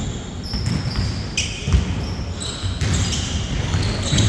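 A basketball bouncing on a court several times during play, with sneakers squeaking on the floor in short, high chirps.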